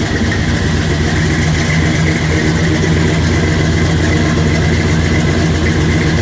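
Custom 1956 Chevrolet Bel Air's V8 idling steadily, heard at the rear exhaust tips.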